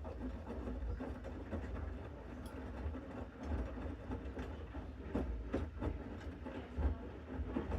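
Bosch Series 6 front-loading washing machine in its main wash, the drum turning and the load tumbling: a steady low rumble with irregular soft knocks.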